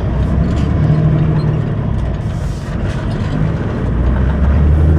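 Semi truck's diesel engine running with a low, steady rumble.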